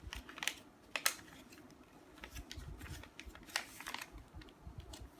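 A sheet of paper being folded by hand into a paper airplane: a few sharp paper crackles as creases are made, the loudest about a second in, with soft rubbing and handling in between.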